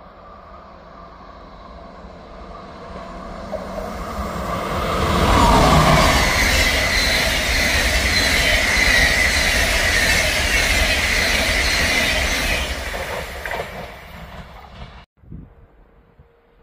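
Passenger train of SBB coaches passing at speed on electrified track: wheels rolling over the rails swell to a loud pass-by with a steady high-pitched wheel tone, then fade as the train runs away, the sound cutting off about fifteen seconds in.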